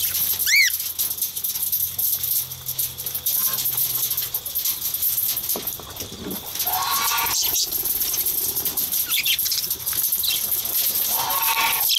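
Budgerigars chirping and chattering, with a sharp rising-and-falling chirp about half a second in and warbling calls later on.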